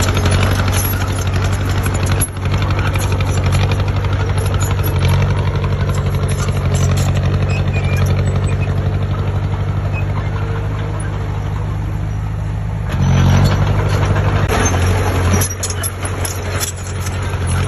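Heavy diesel engine of a construction machine running steadily under load, briefly louder about thirteen seconds in.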